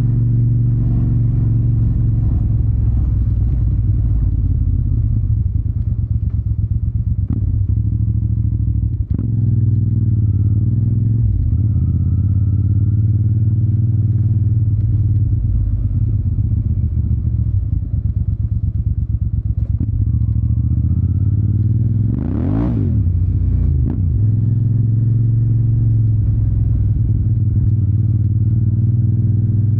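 Yamaha TDM 900's parallel-twin engine through an Akrapovic exhaust, heard while riding. It runs steadily, with a few short breaks for gear changes, and gives one sharp rev that rises and falls about 22 seconds in.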